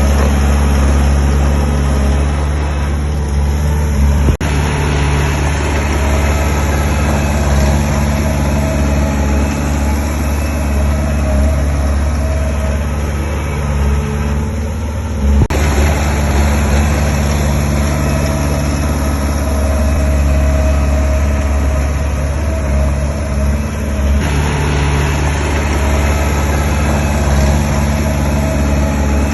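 Diesel engine of heavy construction machinery running steadily with a low drone. A sharp knock comes about four seconds in and another about fifteen seconds in.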